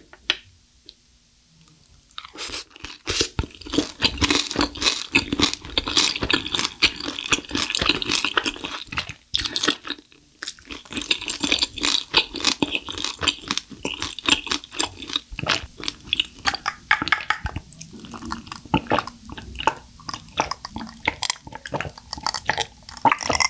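Close-miked chewing of a battered, fried cream shrimp, crisp crunching in quick clicks that start about two seconds in and go on steadily. Near the end she takes a drink of water.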